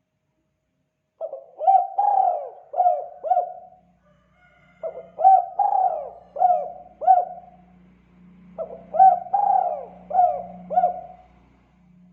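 Spotted dove (tekukur) cooing: three repeated phrases of about five notes each, starting a little over a second in.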